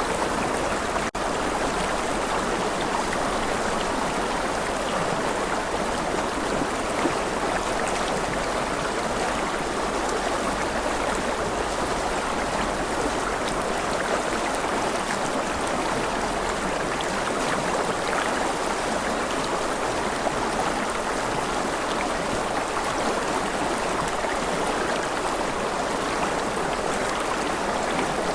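Steady, even rush of running water from a stream, with a momentary dropout about a second in.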